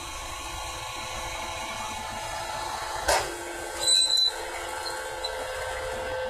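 Baler machine running steadily, with a sharp knock about 3 seconds in and a brief high squeal with a hiss about a second later.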